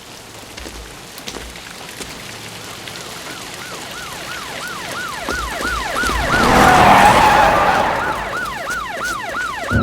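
Police car siren yelping, about three rising-and-falling wails a second, growing louder as it approaches. A rush of noise swells up and fades around seven seconds in.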